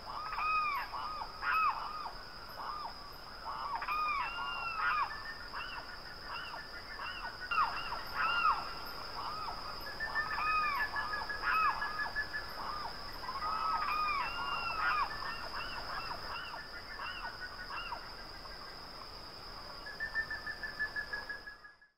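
Birds calling over and over: many short calls that rise and fall, overlapping one another, with a rapid trill about halfway through and again near the end, over a steady high-pitched whine. It all cuts off abruptly just before the end.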